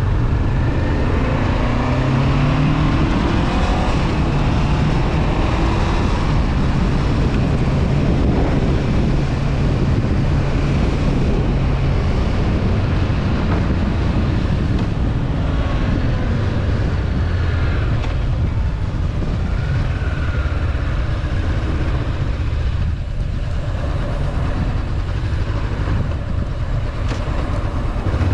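Honda CB500F parallel-twin engine running at cruising speed under wind and road noise, its pitch climbing over the first few seconds and then holding steady.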